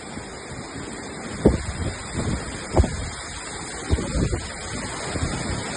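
Steady rush of hurricane wind and rain, broken by a few short low thumps about one and a half, three and four seconds in.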